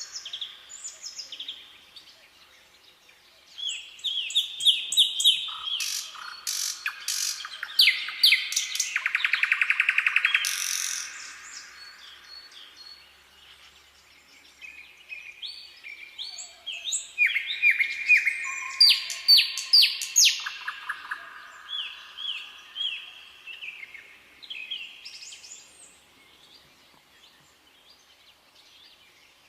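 Wild songbirds singing: repeated chirps, sweeping whistled notes and a fast rattling trill. They come in two busy runs, from about three seconds in to just before halfway and again from past halfway, with quieter pauses between.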